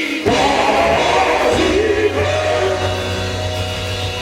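Live gospel band music: sustained chords over a steady bass note, with voices singing behind them.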